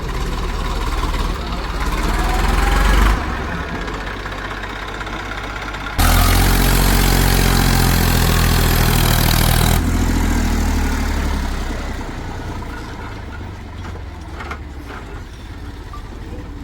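Diesel engine of a heavy tractor or loader running, rising in pitch and loudness over the first three seconds and then cutting off abruptly. About six seconds in it comes in suddenly much louder for about four seconds, then eases back to a lower, steadier running sound.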